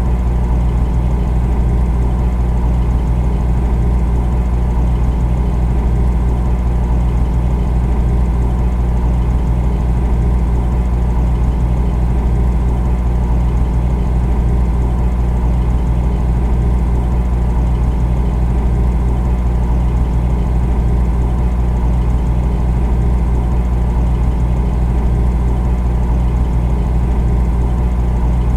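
Refrigerator running with a steady, deep hum that does not change.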